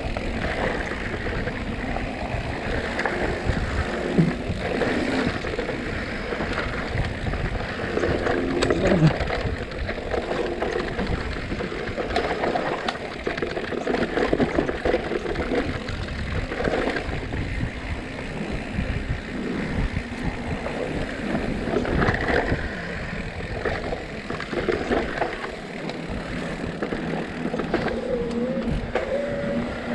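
Mountain bike descending a rough downhill trail: wind buffeting the microphone, with the bike rattling and knocking continuously over the rough ground.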